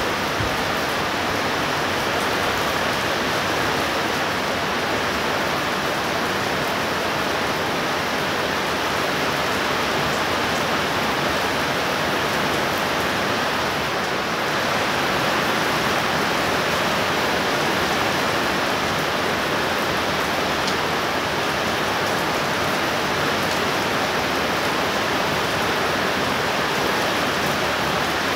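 Heavy rain falling steadily, a dense, even hiss of rain with no thunder heard.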